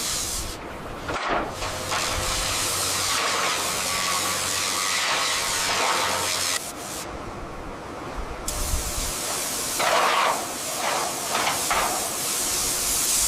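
Loud hissing spray from a high-pressure jet, running in long stretches with a break about halfway and a few uneven bursts near the end. A steady low machine hum runs underneath in the first half.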